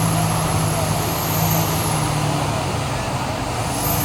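Off-road 4x4 competition vehicle's engine running at a steady speed.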